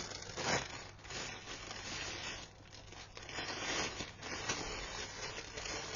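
Plastic packaging bags rustling and crinkling, with some tearing, as bird toys are handled and unwrapped. It comes as uneven, continuous handling noise, swelling and easing.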